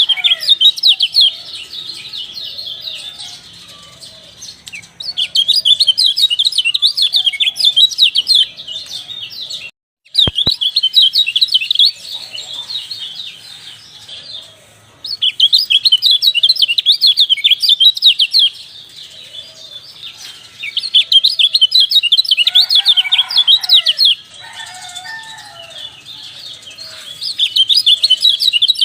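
Kecial dampuk white-eye song: rapid, high twittering phrases in bursts of a few seconds, each followed by a quieter gap with softer, lower calls. A brief dropout to silence about a third of the way in marks a cut in the looped recording.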